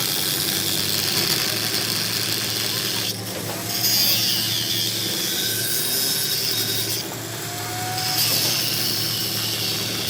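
A power tool running steadily while it works on metal. Its high grinding hiss breaks off briefly twice while the motor hum carries on underneath.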